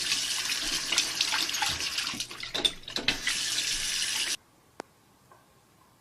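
Water running steadily, like a tap into a sink, with scattered small splashes; it cuts off abruptly about four and a half seconds in.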